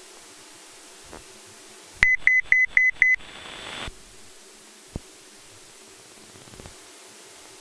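Five short, loud electronic beeps, all at one pitch and about four a second, come through the cockpit headset audio of a Cessna 172 on final approach. They are followed by a brief burst of radio hiss that cuts off with a click. A steady low hum from the cabin lies under it.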